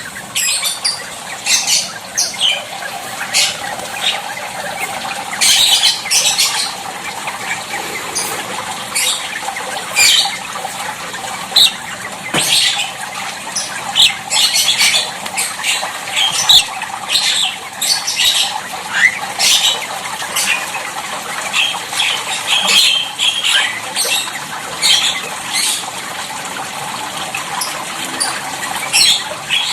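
A jalak (starling) giving many short, harsh squawks and chattering calls at irregular intervals while bathing, with some splashing and wing-flapping in the water.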